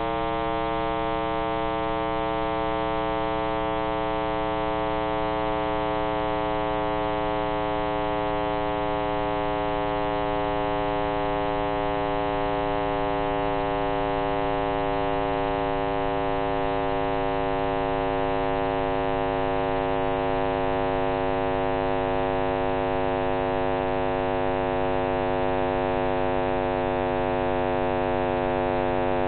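John Cramer's computer simulation of the Big Bang's sound: a dense synthetic drone of many tones gliding slowly downward together over a rumbling low noise. In Cramer's account the falling pitch stands for the universe expanding.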